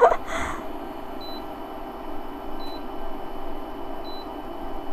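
Electric cooktop controls beeping as the heat is turned down: four short, high beeps about a second and a half apart, over a steady hum from the hob.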